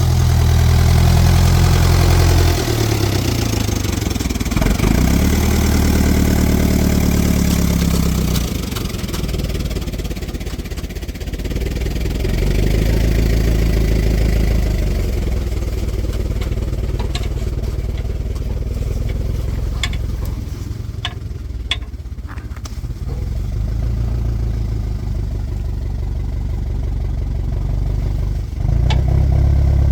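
A small engine running, its speed rising and falling, with a few sharp clicks about two thirds of the way through.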